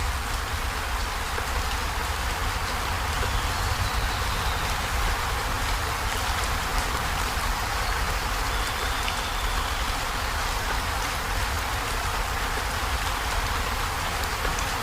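Heavy rain pattering steadily on a zinc corrugated-metal roof, a dense even hiss with a low rumble underneath.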